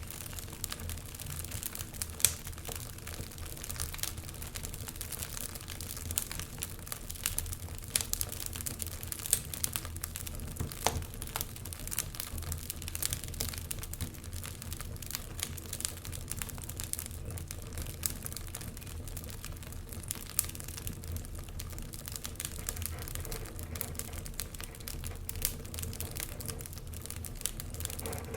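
Wood fire crackling in a fireplace, with dense irregular snaps and pops and one sharper pop about two seconds in, over a low steady rumble.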